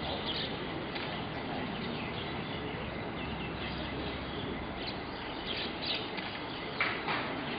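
Steady outdoor background noise with a few short bird chirps, more of them in the last couple of seconds.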